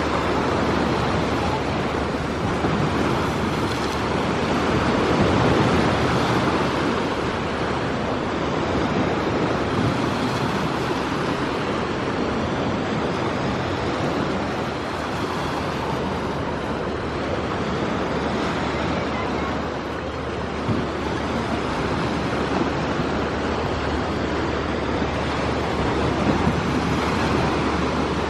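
Steady outdoor rushing noise that holds an even level throughout, with no distinct calls or impacts standing out.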